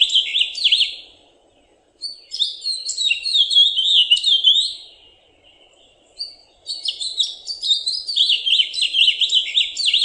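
House finch singing: long, complex, chirpy warbled phrases of rapid notes going up and down. There are three phrases with short pauses between them, the first ending about a second in.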